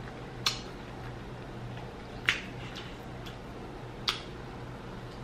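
Close-miked mouth sounds of eating a burger: a few short wet clicks and smacks spread through the seconds, the clearest about half a second, two seconds and four seconds in, over a faint steady low hum.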